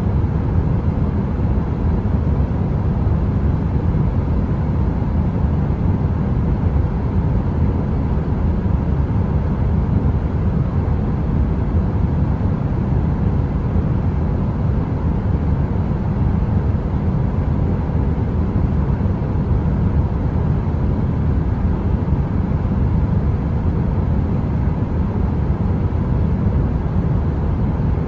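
Heater running: a steady, deep rumbling noise weighted to the low end, with a faint steady hum tone in it and no crackle.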